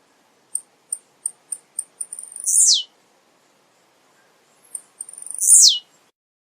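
Male blue-black grassquit (tiziu) singing twice. Each time a run of short high ticks leads into its loud, sharp, downslurred 'tiziu' note.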